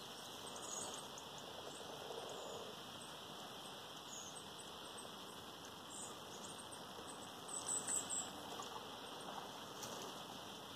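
Faint, short, high chirps from small birds over a steady outdoor hiss, with a brief cluster of louder chirps about three-quarters of the way through.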